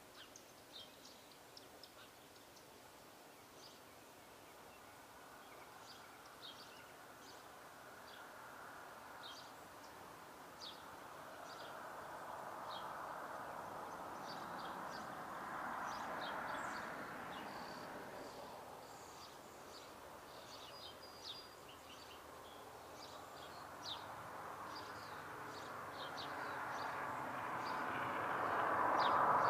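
Small songbirds chirping again and again in short, high notes, over a rushing noise like passing traffic that swells in the middle and grows loudest near the end.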